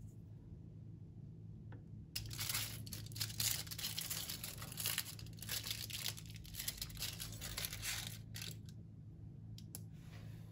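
Crinkling, rustling and tearing of a thin crinkly material being handled, starting about two seconds in and dying away near the end, over a low steady hum.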